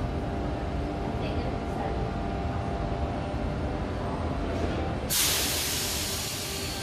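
Sydney Trains double-deck electric train standing at the platform, its equipment humming steadily; about five seconds in, a sudden loud hiss of compressed air sounds, typical of the air brakes releasing before the train departs.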